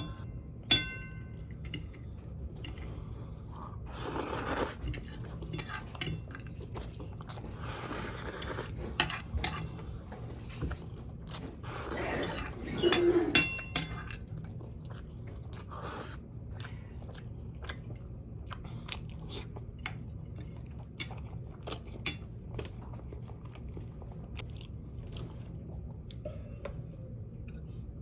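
Close-miked eating of spicy ramen noodles: chewing and mouth sounds in several longer bursts, with scattered clicks of utensils against the bowl.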